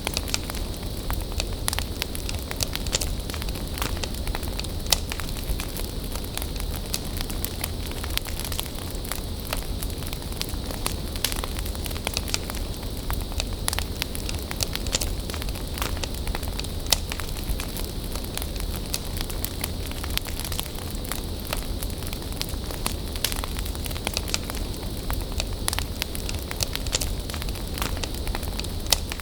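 Bonfire burning: a steady hiss with frequent sharp crackles and pops from the burning wood, a few of them louder than the rest.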